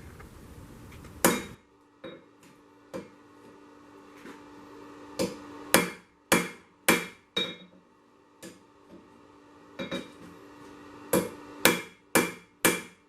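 Hammer striking hot 1085 carbon steel on an anvil in about eighteen irregular blows, some ringing on after the hit, while forging to isolate the corkscrew's tang.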